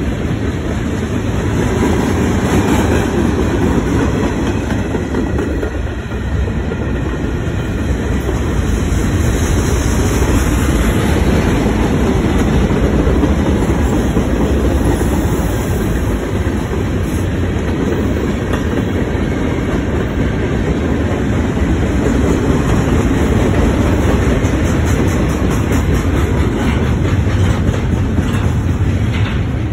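Freight cars of a long mixed freight train rolling past at close range, tank cars and then double-stack container well cars: a steady rumble of steel wheels on the rails, with clicks of wheels passing over rail joints in places.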